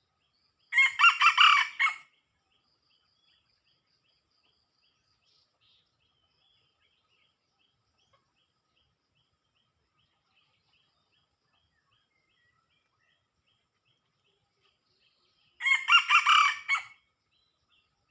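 A rooster crows twice, once about a second in and again near the end, each crow about a second and a half long. Faint, regular high chirps tick along in between.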